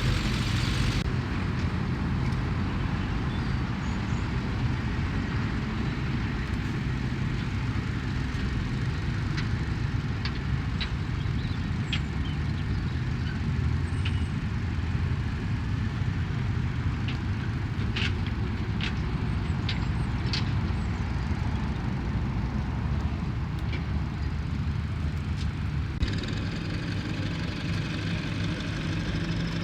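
Heavy diesel engine of a large tractor running steadily, with a few short sharp clicks about two-thirds through. The sound shifts abruptly about a second in and again near the end.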